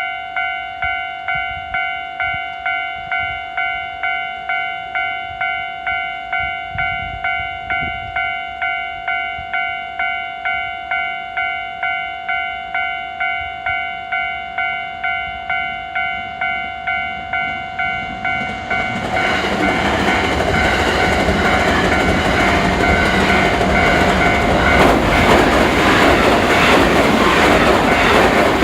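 Level-crossing warning bell ringing about twice a second. About two-thirds of the way in, JR 321 series and 223 series electric trains pass over a railway bridge, and their loud rumble and wheel clatter drowns it out.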